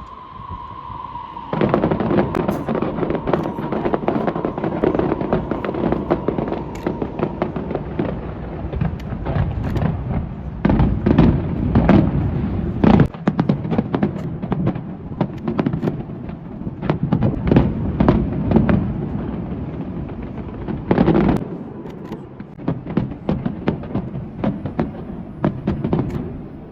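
Fireworks display: dense crackling and popping with repeated loud bangs, starting about a second and a half in.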